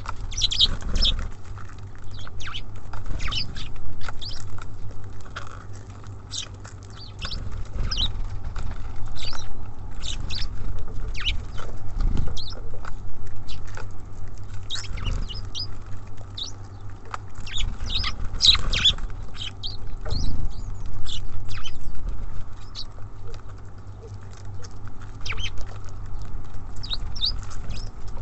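Small songbirds (tits and sparrows) at a bird feeder, giving many short, high chirps throughout, mixed with low knocks and patter from birds landing and pecking on the feeder, over a steady low hum.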